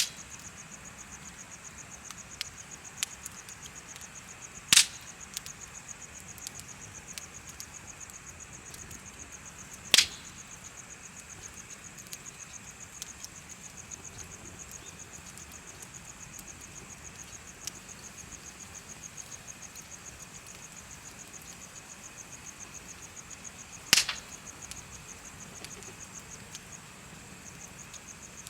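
Wood bonfire crackling, with a few loud sharp pops about 5, 10 and 24 seconds in and smaller snaps between. Insects chirp throughout in a steady, fast high trill.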